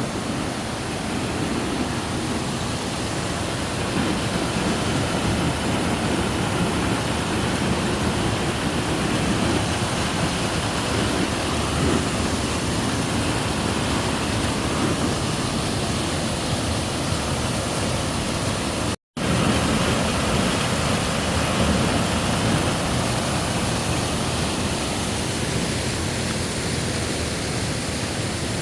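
Steady rush of falling water, a waterfall's continuous roar. It cuts out to silence for a split second about two-thirds of the way through, then resumes.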